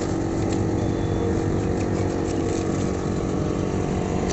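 A motor running steadily at one even pitch, with a hiss and faint ticks above it.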